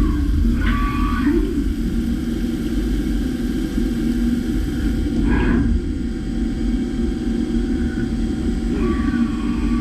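DMG MORI M1 CNC milling machine cutting a steel part: a steady, loud running noise with a low rumble, broken a few times by brief higher tones that slide in pitch.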